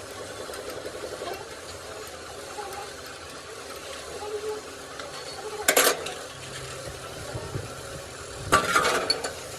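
Metal tools and parts clanking on a workbench during diesel injection pump repair work: two loud clanks, one about six seconds in and a longer rattling one near the end, over a steady low workshop background.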